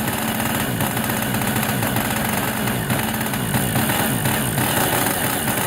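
Tower Hobbies .46 two-stroke glow engine on a model airplane running on the ground, its pitch wavering up and down. Its fuel mixture is not yet set right: it is called too lean just before and running rich just after.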